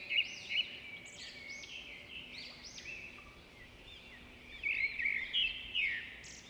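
Small songbirds chirping and twittering, many quick overlapping chirps, loudest for a stretch about two-thirds of the way through.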